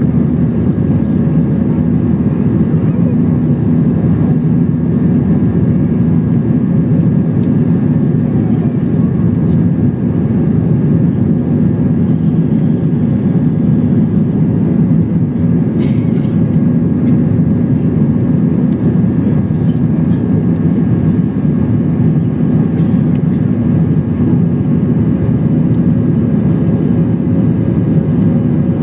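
Airbus A321 cabin noise: a steady drone of the jet engines and airflow heard from a seat inside the cabin, with a low hum that holds its pitch.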